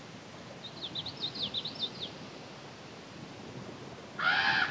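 A small songbird singing a quick run of about a dozen short, high, down-slurred notes lasting about a second and a half, over a steady background hiss. Near the end comes a louder, brief call with a rising-then-falling pitch.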